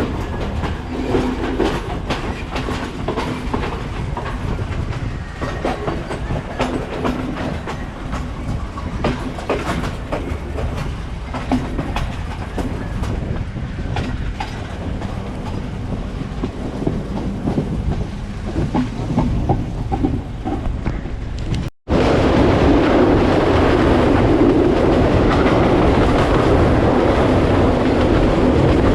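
Passenger train running along the line, its wheels clattering over rail joints with many sharp clicks over a steady rumble. About three-quarters of the way through the sound cuts out for an instant, then comes back as a louder, steadier rumble.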